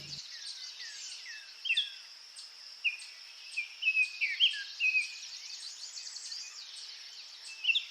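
Several birds chirping in short, quick notes over a steady high hiss, like a nature ambience of birds and insects.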